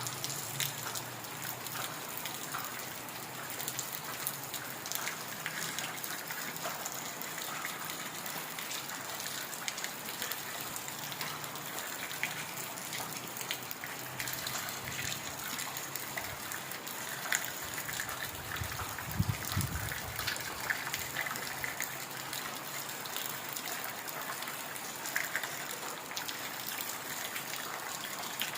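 Heavy rain falling steadily, a dense hiss with scattered sharper drop splashes. A brief low thud sounds about two-thirds of the way through.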